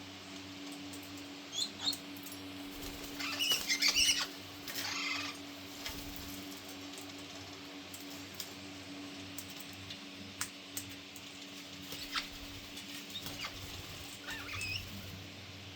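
Australian king parrots calling, with short harsh squawks and a loud burst of screeching about three seconds in, a shorter one soon after, and a rising call near the end. Scattered sharp clicks sit over a steady low hum.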